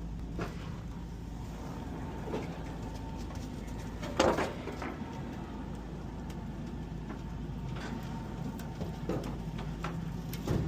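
A vehicle engine running steadily, with a few short knocks or clunks, the loudest about four seconds in.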